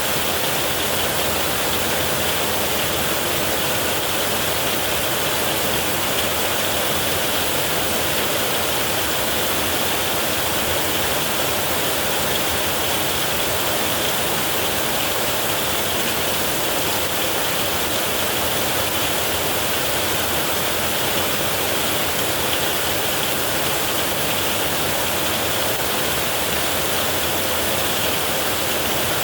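Heavy rain falling steadily, an even hiss with no thunder rolls or other changes.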